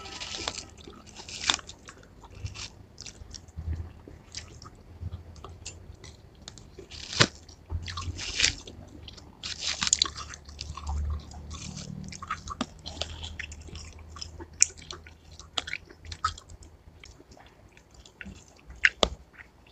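Close-up eating sounds of juicy watermelon chunks being bitten and chewed: irregular wet mouth smacks and crunches, with sharp clicks scattered through, the loudest about seven seconds in and again near the end.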